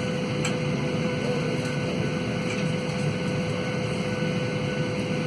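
Steady cabin noise inside a Boeing 737-800: an even low rumble with a constant hum running through it.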